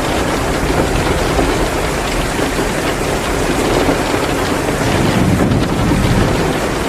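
Heavy, steady downpour of rain, with a low rumbling swell about five seconds in.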